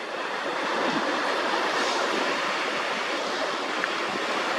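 Sea waves washing on the shore close by, a steady rushing of surf.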